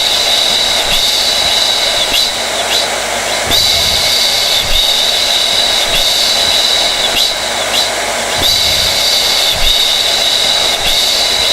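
Hair dryer running steadily: an even rushing hiss of air with a high whine from the motor and fan. A slight wobble recurs about every two and a half seconds.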